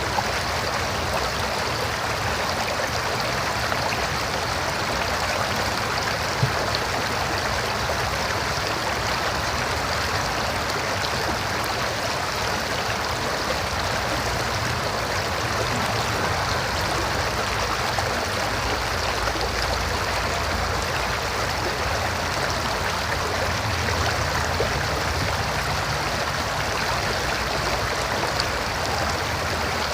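River water flowing over rocks: a steady, unbroken rush of moving water.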